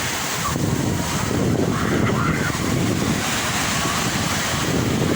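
Sea waves washing steadily, with wind buffeting the microphone as a heavy low rumble.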